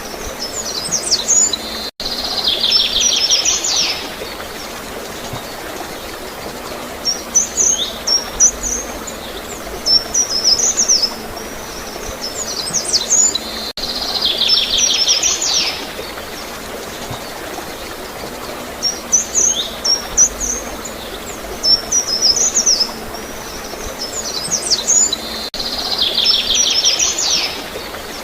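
Small songbirds chirping in clusters of high calls, each round ending in a buzzy trill, over a steady background of flowing water. The same sequence repeats about every 12 seconds as a loop, with a brief click at each join.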